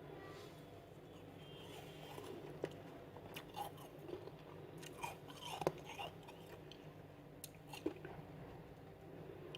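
Freezer frost being bitten and chewed: scattered sharp icy crunches and crackles, thickest in the middle, with one louder crunch near the end.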